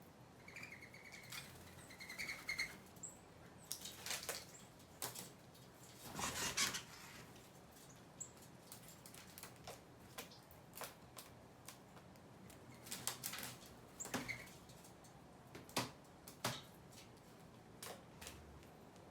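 Small birds at a feeder: a few short chirps in the first few seconds, then scattered light clicks and taps, with a louder cluster about six seconds in.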